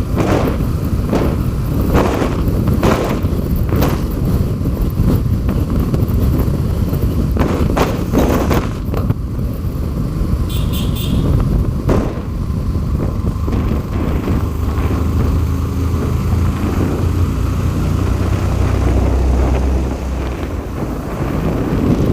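Road vehicle running, with a heavy low rumble and irregular knocks and gusts in the first half. A brief high-pitched tone sounds about ten seconds in.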